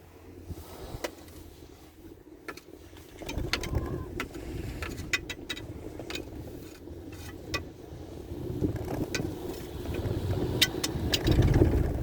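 Four-seater chairlift rolling along its cable: a low mechanical rumble that swells about three seconds in and again near the end, with a run of sharp clicks and knocks, as a chair passing over the rollers at a lift tower makes.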